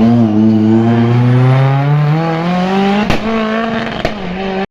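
Race car engine pulling hard under acceleration, its pitch rising steadily for a few seconds before levelling off. Two sharp cracks come about a second apart near the end, and the sound cuts off suddenly.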